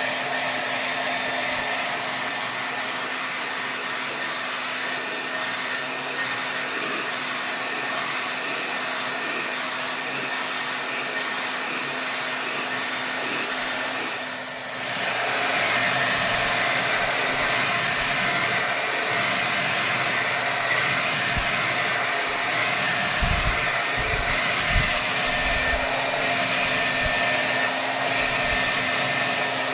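Hair dryer blowing at full power: a steady rush of air over a constant motor hum. About halfway through it dips briefly, then runs a little louder, with a few low thumps of air buffeting in the second half.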